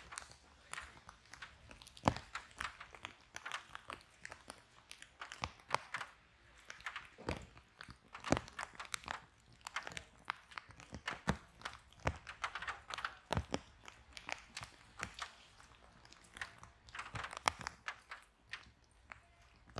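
Wood fire burning in a fireplace, crackling with irregular sharp pops and snaps over a faint hiss.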